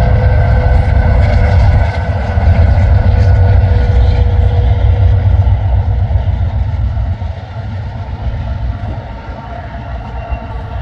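Train passing close by: a heavy, steady low rumble with a few steady tones above it, getting quieter about seven seconds in.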